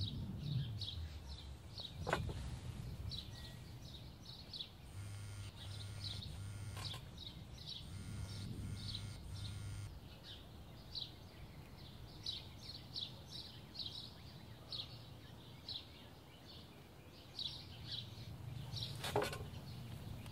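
Small birds chirping over and over, short high chirps two or three a second. About five seconds in come two sets of three short buzzes, and there is a sharp knock once near the start and once near the end.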